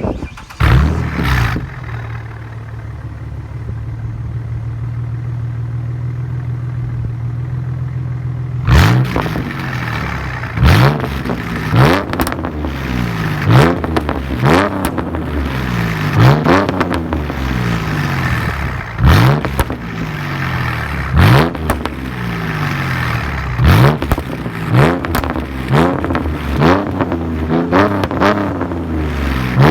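2010 Ford Mustang's 4.0-litre V6 through a custom H-pipe and SLP Loudmouth mufflers. A short rev near the start, then a steady idle for several seconds, then the throttle is blipped over and over, each rev rising sharply and falling back, about one every second or two.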